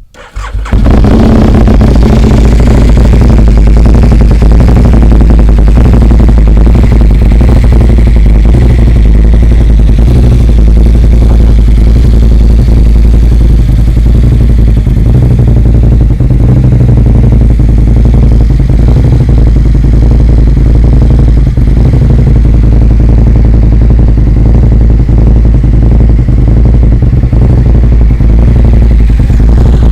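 Aprilia RSV 1000 Factory's 998 cc V-twin running through a carbon Mivv aftermarket exhaust, very loud. It comes in suddenly about half a second in and then holds a steady, even engine note.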